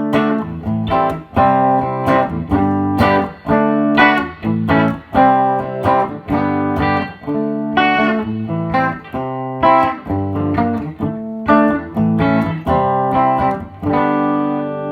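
Clean electric guitar chords from a 1979 Gibson Les Paul Custom on its bridge pickup, played through a Fender Hot Rod DeVille 410 amp with a slight touch of reverb. A string of strummed chords, the last one left ringing near the end.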